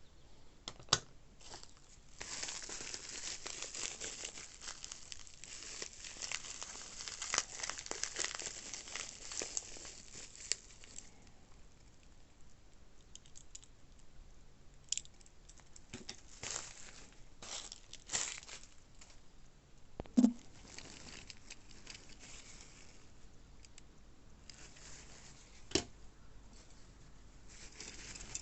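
Packaging being unwrapped and handled: about nine seconds of continuous crinkling and tearing, then scattered clicks and light knocks, with one sharper knock about twenty seconds in.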